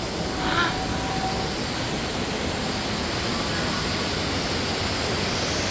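Steady, even rushing noise, with a faint brief voice about half a second in.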